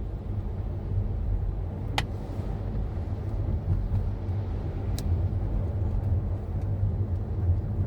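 Car cabin noise while driving: a steady low road and engine rumble, with two brief sharp clicks, about two and five seconds in.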